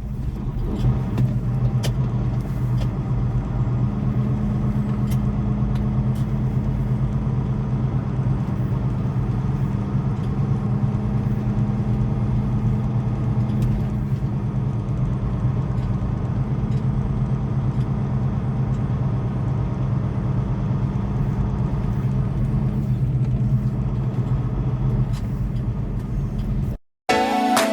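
Semi truck's diesel engine running steadily on the road, with a constant low hum and road noise, cutting off suddenly near the end.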